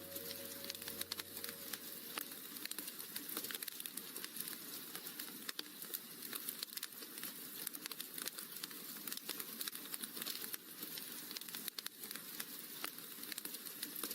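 Wood fire crackling in a fireplace: a dense, irregular run of small pops and snaps over a soft hiss.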